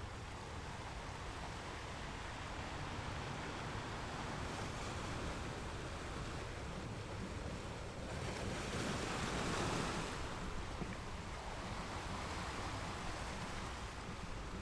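Ocean waves washing over a shore: a steady wash of surf, with one wave breaking louder about eight seconds in and then receding.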